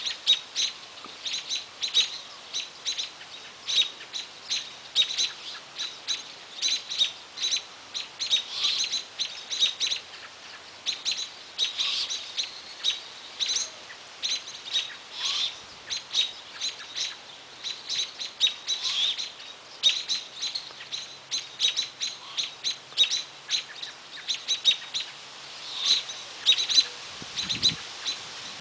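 Small birds calling with rapid, repeated short chirps, several a second, with a fainter lower note about every three to four seconds.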